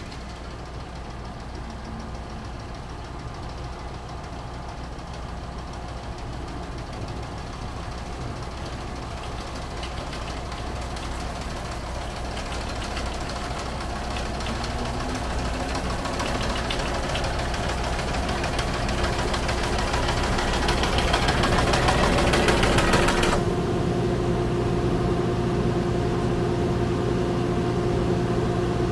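Skid steer engine running, getting gradually louder, with the sickle bar mower's reciprocating knife clattering over it. The clatter cuts off suddenly about three quarters of the way through as the sickle bar is shut off, leaving the engine running steadily.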